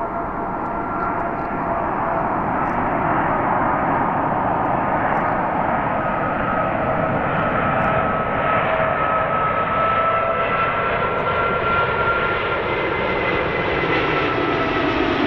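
Airbus A380 landing, its four jet engines giving a steady rush with a whine on top. The noise grows louder over the first few seconds and then holds, with a slow shift in tone as the airliner passes.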